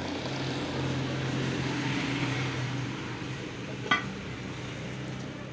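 A passing vehicle's noise swells and fades over a steady low hum. There is a single sharp click a little before four seconds in.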